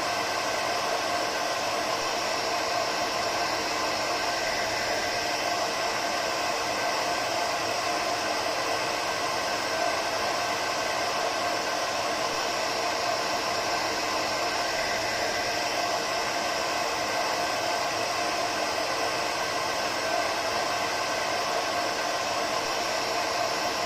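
Hair dryer running steadily: an even blowing hiss with a faint motor whine, unchanging throughout.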